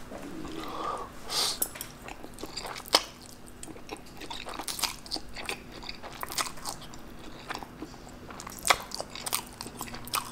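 Close-miked eating of spicy instant black bean noodles (jjajangmyeon): the noodles slurped in and chewed, with many short wet mouth smacks and clicks.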